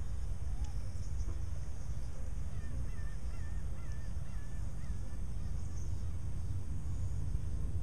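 A steady low outdoor rumble, with a bird calling faintly in a quick wavering series from about a third of the way in until past the middle.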